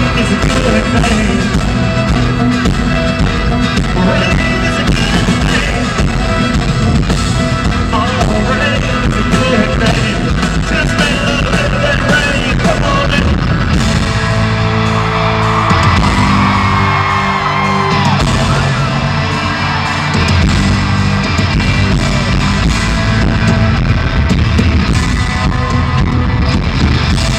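Loud live country-rock band playing through an arena sound system, with singing and crowd yells over it.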